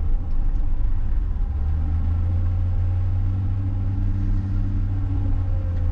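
John Deere 544K wheel loader's diesel engine running steadily under work, a deep rumble whose note shifts slightly a couple of times as the load changes while it moves a snow pile.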